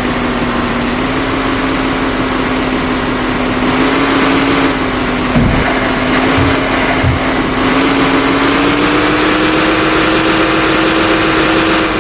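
Diesel engine of earth-moving equipment running steadily, its pitch rising a little about two-thirds of the way through and dropping back near the end.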